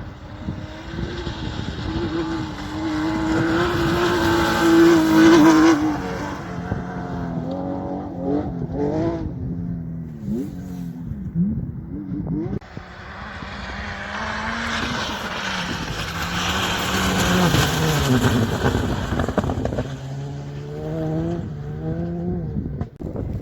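Rally car engines at full throttle, loudest about 5 seconds and 17 seconds in. In between, the revs climb and drop sharply several times as the gears change and the throttle lifts.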